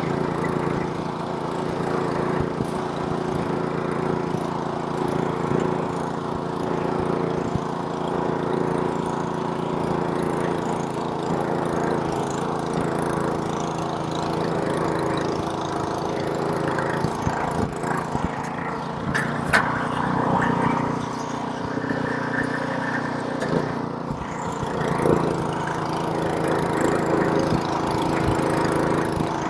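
Snowblower's small gasoline engine running steadily while clearing snow, its pitch dipping and shifting for several seconds past the middle, with a short sharp click a little past the middle.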